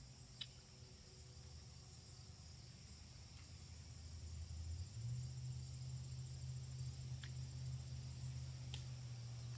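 Faint steady insect trilling, likely crickets, over a low hum that grows louder about halfway through, with a few soft clicks.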